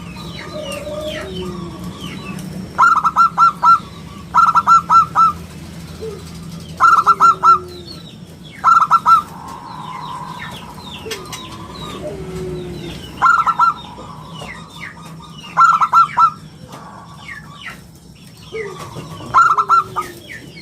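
Zebra dove (perkutut) cooing in short bursts of four or five quick notes, about seven times, with a clear, round tone. Other small birds chirp faintly between the bursts.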